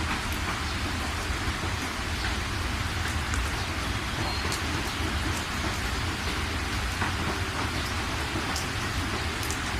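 Steady heavy rain, with a constant low rumble beneath it and occasional sharp ticks of drops.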